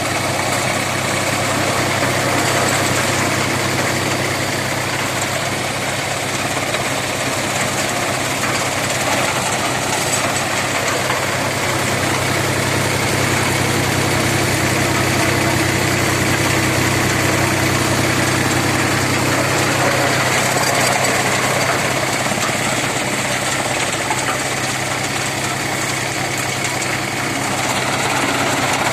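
Tractor engine running at a steady speed, driving a PTO-powered chaff cutter: an even engine drone with a continuous machine whir over it.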